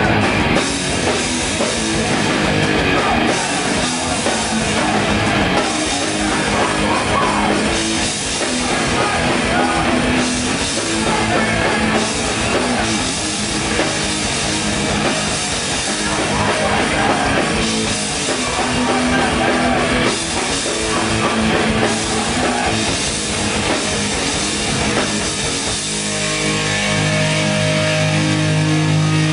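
Hardcore band playing live at full volume, with heavy distorted electric guitars and fast, pounding drums. About 26 seconds in the drums drop out and the guitars are left ringing on held notes.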